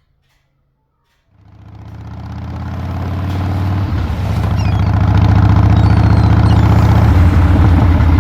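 Harley-Davidson V-twin motorcycle engine running, fading in about a second in and holding a steady, loud, low-pitched beat.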